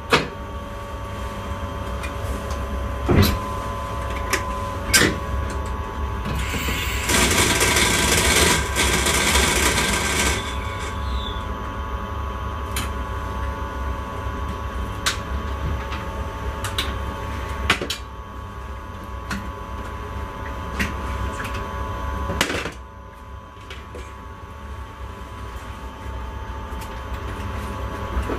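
Inside the cab of an intercity train: a steady electrical hum and low rumble, with a few sharp clicks and knocks, and a loud hiss lasting about four seconds near the start. The sound drops a little after a knock about two-thirds of the way through.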